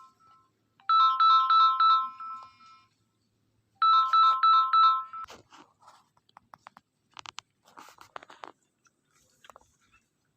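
Electronic phone ringtone: a rapid warble between two pitches, sounding in two loud bursts about a second and four seconds in, then stopping. Faint clicks and rustles of handling follow.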